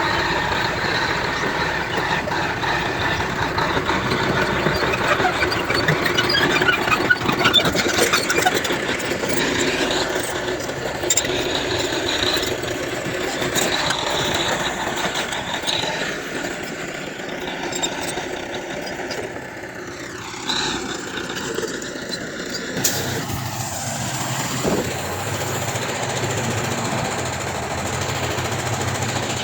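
Diesel engines of a bulldozer and dump trucks running while working earth, with scattered knocks in the first half. About two-thirds of the way through the sound changes suddenly to a steadier, lower engine hum.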